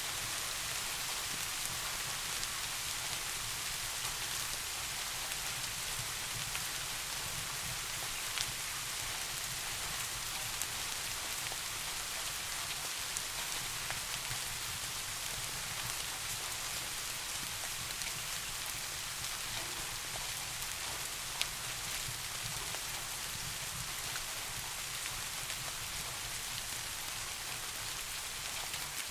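Steady rain falling as an even hiss, with a low steady rumble underneath and a few sharp isolated ticks.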